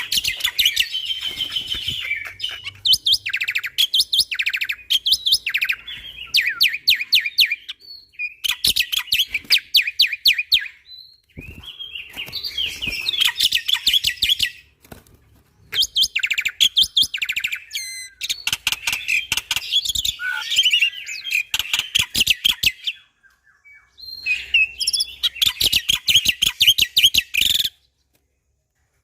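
Black-winged starling (jalak putih) singing loud, rapid-fire chattering phrases of fast repeated high notes, in bursts of a few seconds separated by short pauses.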